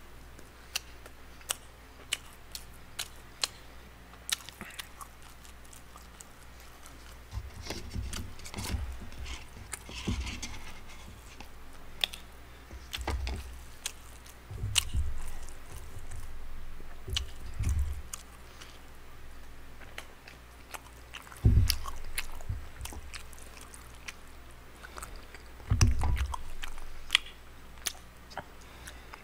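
Close-up eating sounds: chewing and smacking of tteokbokki rice cakes and fried snacks, with frequent sharp clicks and a few dull thumps, the loudest two near the last third.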